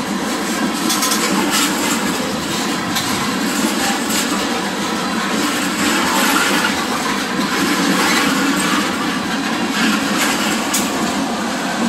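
Tank cars of a freight oil train rolling past close by: a steady rumble of steel wheels on rail, with scattered clicks.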